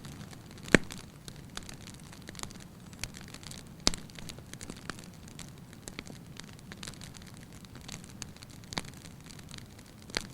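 Wood fire burning in a fireplace: a soft steady hiss of flame with irregular sharp crackles and pops, the loudest pops about a second in and about four seconds in.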